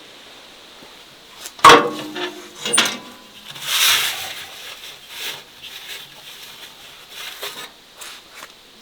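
Kitchenware being handled: a loud ringing clank about a second and a half in, a second clink a second later, then a scrape and a few light knocks.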